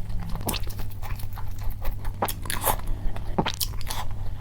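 Close-miked chewing and biting of a mouthful of rice with grilled pork: irregular crisp clicks and wet mouth sounds, over a steady low hum.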